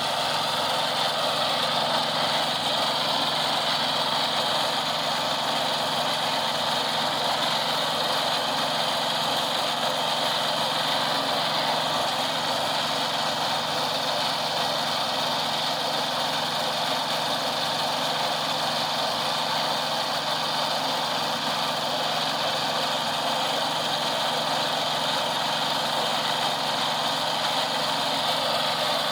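Engine of road-construction machinery running steadily at a constant pitch and level.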